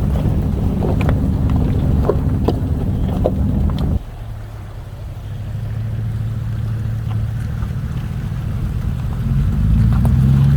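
Vehicle engine and road noise while driving, with scattered light knocks and rattles in the first few seconds. About four seconds in the sound changes abruptly to a quieter, steadier engine hum, which rises in pitch near the end as the vehicle speeds up.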